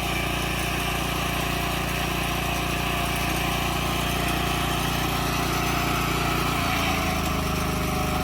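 Small engine running steadily, its note changing about six and a half seconds in.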